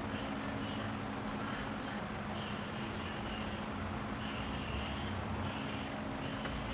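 Steady low mechanical hum, like an engine running, over constant background noise.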